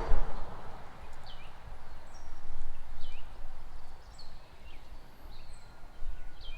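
Small birds chirping: a string of short, quick, downward-sliding chirps, repeated every second or so, over a low uneven rumble.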